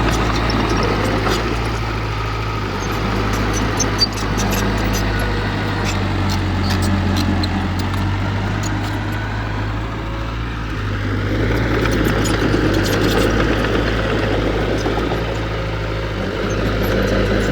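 Diesel engine of heavy earthmoving machinery running steadily, its level and note shifting as it works, with scattered light clicks and one sharp knock about four seconds in.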